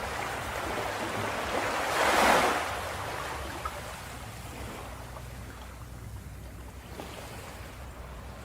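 Ocean waves breaking on a beach: one wave swells and crashes about two seconds in, then the surf washes back more quietly.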